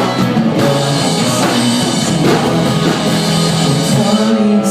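Live rock band playing, with electric guitar and drum kit, between sung lines.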